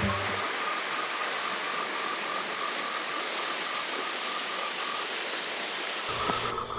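Steady rushing of water, an even hiss with no low rumble, with a faint repeating high chirp under it. Background music comes back in near the end.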